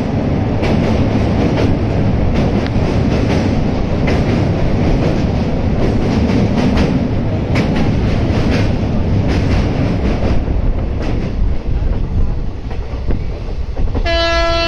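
Passenger train running over a steel truss bridge, heard from an open coach door: a loud, steady rumble of wheels with a rapid clatter of knocks from the rail joints. The clatter thins out after about ten seconds as the train comes off the bridge. A short horn blast sounds near the end.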